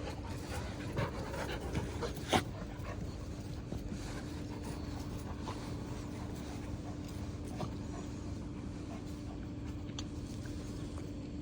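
A dog panting over a steady low hum, with one sharp knock about two and a half seconds in.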